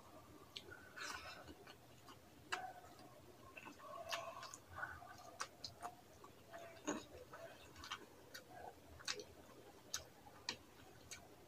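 Close-miked eating sounds of a person eating rice and fish curry by hand: wet mouth clicks and lip smacks while chewing, coming irregularly several times a second.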